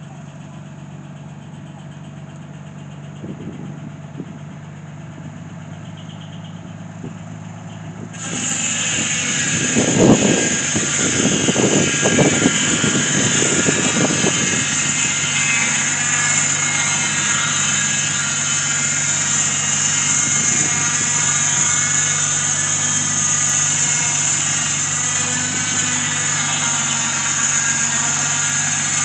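Engine running steadily; about eight seconds in a much louder machine sound cuts in, with a high hiss over it and a few heavy pulses, then runs on steadily.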